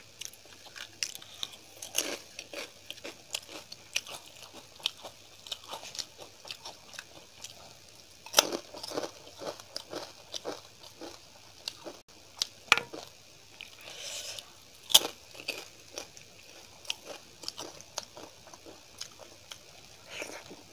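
Chewing and wet mouth sounds of a person eating rice mixed with curd by hand, with the fingers mixing rice on a steel plate in between; many short, irregular clicks and smacks.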